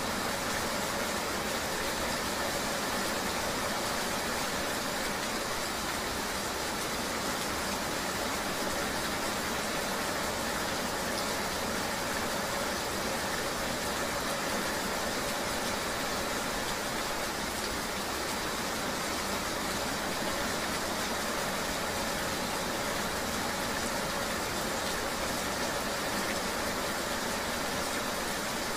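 Steady, even rain-and-riding ambience: a constant wash of rain noise with the low hum of a vehicle running underneath, unchanging throughout.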